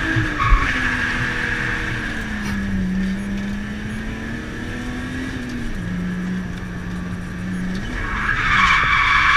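BMW E36 325i's M50 2.5-litre straight-six, heard from inside the cabin, pulling and easing off while the tyres squeal in a slide; the squeal fades early and comes back loudest near the end. A brief thump about half a second in.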